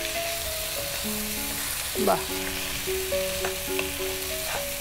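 Mutton pieces with onion and ground spices sizzling in hot oil in a non-stick wok, stirred and scraped with a wooden spatula, with a few light knocks, as the spice paste is fried with the meat. Soft background music of held notes plays underneath.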